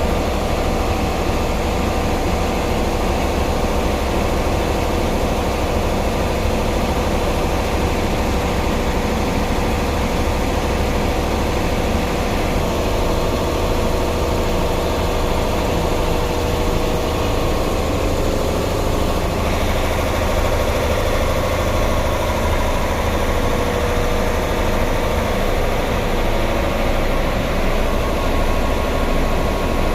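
Ammonia refrigeration plant machinery running steadily: a loud, even mechanical drone with a deep low rumble and a few steady tones over it.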